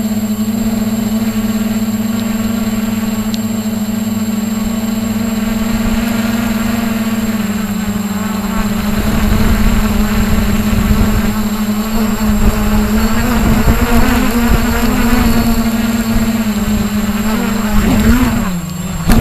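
Radio-controlled model helicopter running with a steady buzzing whine from its motor and rotor. From about eight seconds in, a heavy, uneven low rumble builds under the whine, and near the end the pitch dips briefly.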